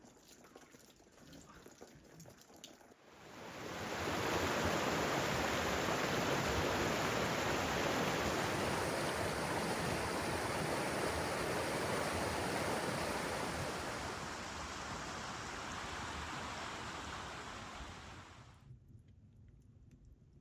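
Running water: a steady rush that swells up a few seconds in, holds, eases slightly, then dies away near the end.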